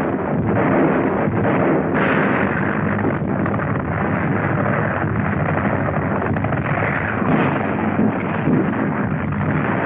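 Battle sound on a 1940s film soundtrack: a dense, continuous din of artillery fire and explosions, with a few sharper reports standing out in the last few seconds.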